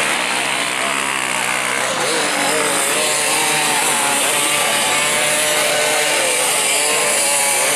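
Off-road dirt bike engines revving and running, the pitch rising and falling throughout, over a steady hiss.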